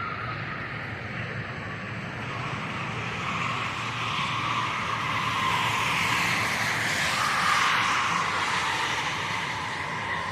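Rushing noise of a passing vehicle, swelling over several seconds to a peak about two-thirds of the way through and then fading.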